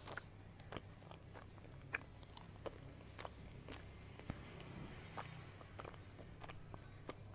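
Close-miked chewing of McDonald's Chicken McNuggets: irregular crisp crunches and wet mouth clicks, a few of them sharper and louder, over a low steady hum.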